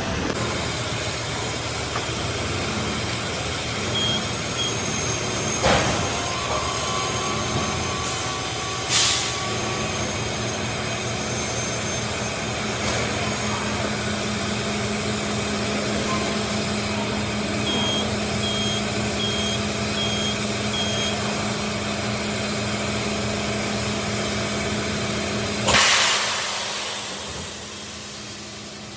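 Tyre-factory machinery running with a steady hum, cut by three short blasts of compressed air; the last, near the end, is the longest and loudest. Short high electronic beeps sound twice early on and then five times in a row about halfway through.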